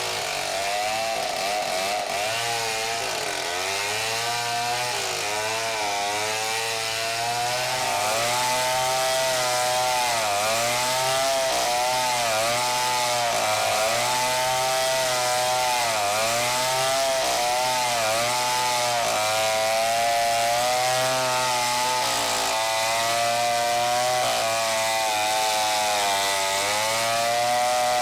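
Chainsaw running at high revs and cutting wood, its pitch dipping and recovering every second or two as the chain bites in and eases off.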